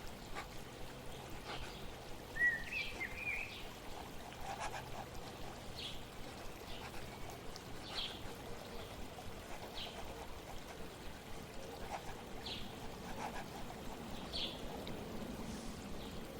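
Flowing water trickling steadily, with a bird chirping in short calls about every two seconds and one brief warbling phrase about two and a half seconds in.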